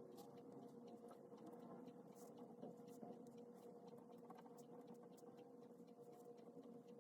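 Faint scratching of a pen writing on paper, short strokes coming in quick irregular succession, over a steady low hum.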